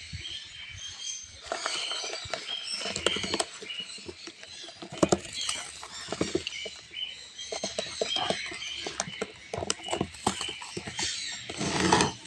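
Conure chicks giving many short, high squeaking chirps, with scratchy rustling and clicking mixed in.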